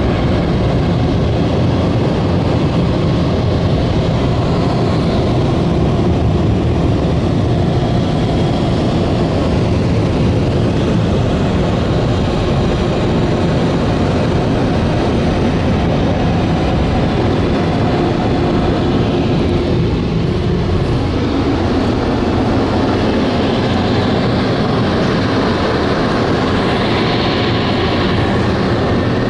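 Ryko SoftGloss XS rollover car wash machine running: a loud, steady rushing noise over a low hum. The sound shifts in pitch about twenty seconds in as the machine moves along the car.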